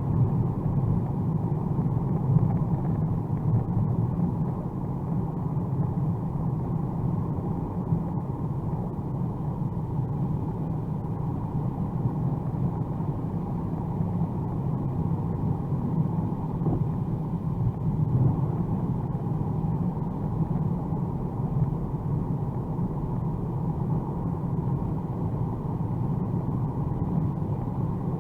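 Steady low drone of a 2021 Mercedes-AMG A35 4MATIC+ under way, road and engine noise as heard inside the cabin, with no change in pitch.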